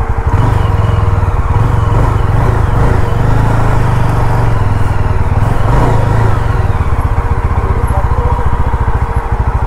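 Single-cylinder engine of a Yezdi adventure motorcycle running at low speed with a fast, steady exhaust beat as the bike is ridden slowly, the revs swelling slightly twice.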